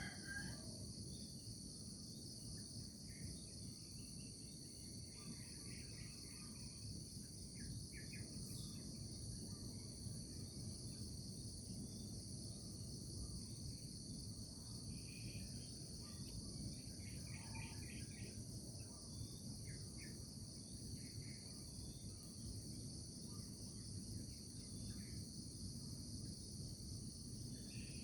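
A steady chorus of insects trilling in two high bands, with scattered short bird chirps and a low rumbling background noise; the tail of a rooster's crow is heard at the very start.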